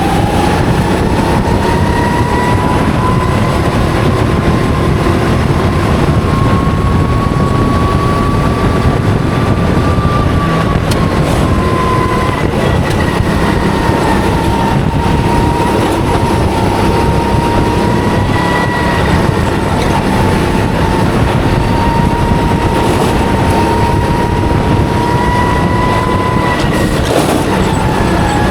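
Go-kart engine running hard, heard from an onboard camera: a whine that climbs slowly for about ten seconds, dips around twelve seconds in, then holds fairly level, over loud rumbling road and wind noise.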